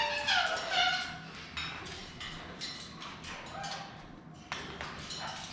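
Pet parrots calling: a few loud squawks that slide down in pitch in the first second, then scattered short chirps and clicks.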